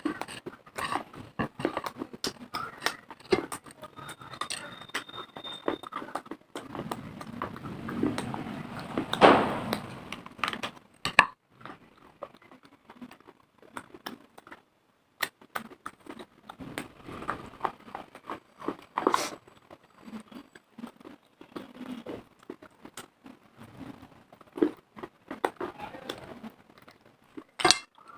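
Close-up crunching and chewing of hard, dry pieces of baked clay and chalk: many sharp, irregular crunches and clicks, loudest about a third of the way in, with a brief pause in the middle.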